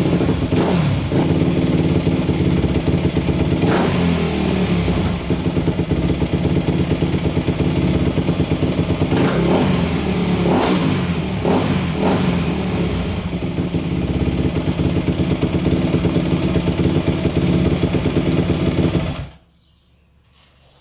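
2004 Yamaha YZ250F's four-stroke single-cylinder engine running on its first start after a bottom-end rebuild with a new crank, revved briefly a few times. It cuts off suddenly near the end.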